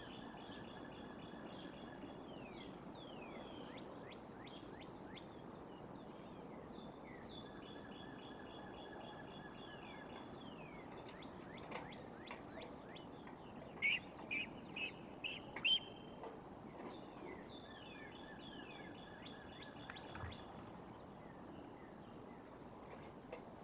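Wild birds calling over a steady outdoor hiss. A song of held notes and quick falling chirps repeats every several seconds, and a run of five loud, sharp calls comes a little past the middle.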